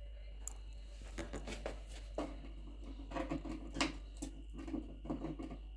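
Irregular light taps, clicks and scratches, several a second: a quaker parrot's beak and feet working at its cage as it climbs about.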